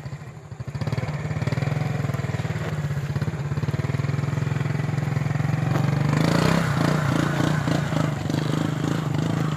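Small motorcycle engine running at low speed on a rough muddy track, a steady low drone; about six seconds in the engine note lifts a little and a rushing noise joins it.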